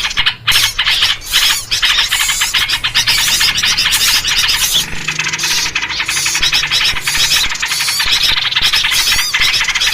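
Loud, dense chatter of many small birds calling over one another without a break, a bird-luring track built on yellow-vented bulbul (trucuk) calls. A short falling whistle sounds near the end.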